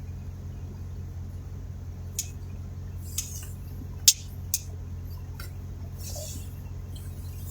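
Steady low hum of a vehicle, heard from inside the cab, with four short, sharp high-pitched ticks between about two and four and a half seconds in and a brief faint hiss near six seconds.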